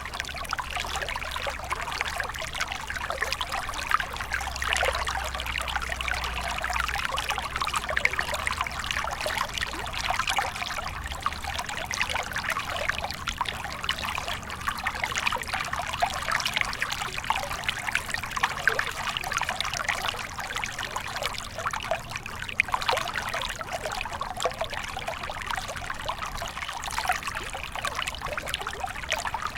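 Small stream of water flowing and trickling steadily, with a busy fizz of fine splashes.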